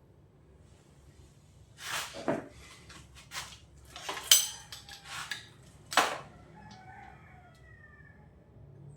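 Metal clinks and knocks from tools and motorcycle parts being handled, one of them ringing briefly, with a steady workshop fan humming underneath.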